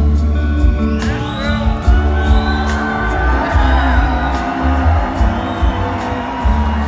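Live rock band playing amplified music with a steady low beat. Audience whoops and cheers rise over it from about a second in.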